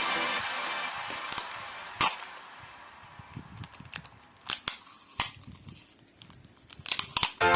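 A few sharp clicks and taps at irregular intervals, the loudest about two seconds in and a quick cluster near the end.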